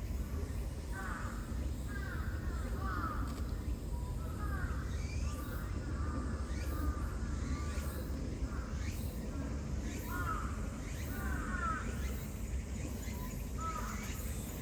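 Birds calling, a few short calls at a time with gaps between, over a steady low rumble.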